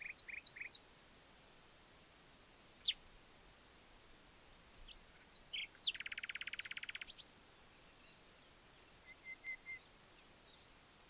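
Small birds chirping, with short high calls scattered throughout and a fast trill about six seconds in, over a faint steady hiss.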